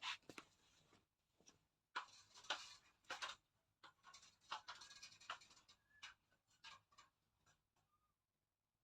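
Faint, irregular plastic clicks and scratchy rustling of an air conditioner's filter and cover being handled, with a few brief faint squeaks in the second half.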